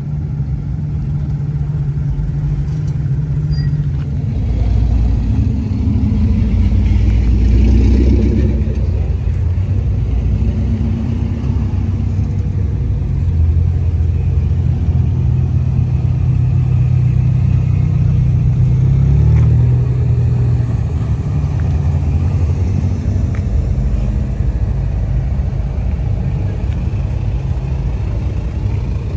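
Car engine running with a low rumble, its pitch stepping up and down a few times as the revs change.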